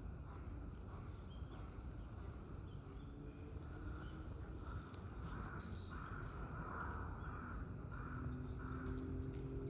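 Outdoor pond-side ambience with a steady low rumble and a run of repeated harsh bird calls through the middle. Near the end, sustained low musical notes fade in.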